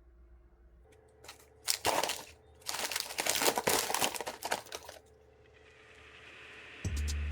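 Crinkling and crackling, like something being crumpled or handled, for about two seconds in the middle, after a single click. A rising hiss follows, and music with a steady beat comes in near the end.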